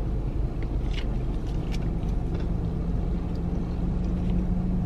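Steady low hum of a parked car's idling engine, heard from inside the cabin, with a few faint clicks of someone chewing food.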